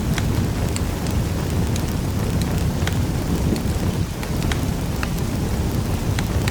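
Wood fire crackling in a fireplace: a steady low rumble of burning with irregular sharp pops and crackles, a few each second.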